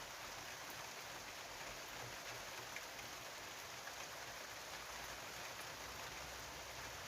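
Steady rain falling during a thunderstorm, a faint, even hiss with a few light drop ticks.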